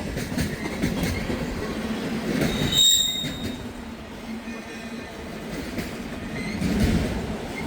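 Freight train cars rolling past on the rails as the train picks up speed, with a short high-pitched wheel squeal about three seconds in.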